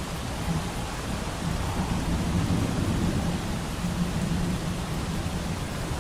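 Steady rain with a low rumble of distant thunder that swells up through the middle and eases off near the end.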